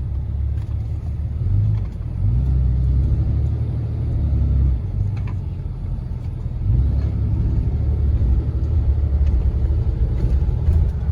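Motor vehicle on the move: a steady low engine and road rumble that swells about two seconds in and again a few seconds later.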